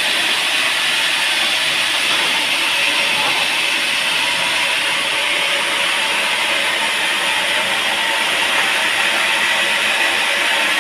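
Sawmill saw cutting teak wood: a steady, even hiss with no breaks.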